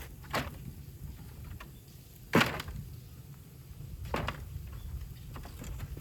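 Bamboo cracking: three sharp snaps about two seconds apart, the middle one loudest, with a few fainter ticks between.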